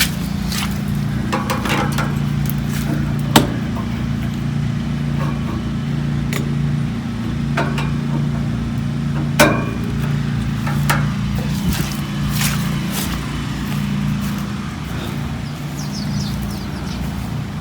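A steady low mechanical hum, like a running motor or engine, with scattered clicks and knocks over it; the sharpest knocks come about three seconds in and about nine seconds in.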